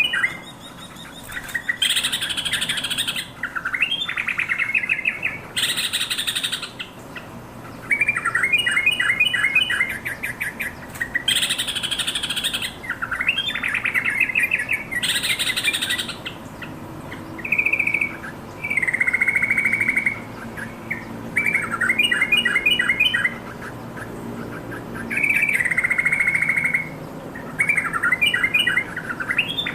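Yellow-vented bulbul singing: short, bubbly phrases of quick chattering notes, repeated every second or two with brief pauses between them.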